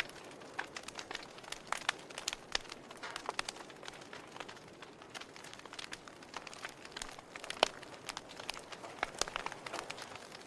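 Wood fire in a fireplace crackling: irregular pops and snaps over a soft hiss, with one sharper pop about three quarters of the way through.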